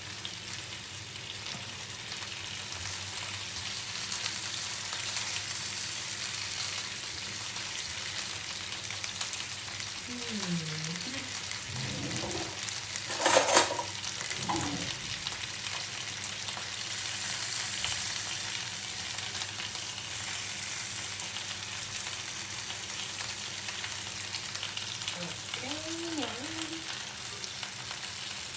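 Chicken legs sizzling steadily as they brown in their own rendered fat, with no oil added. A brief loud clatter about halfway through.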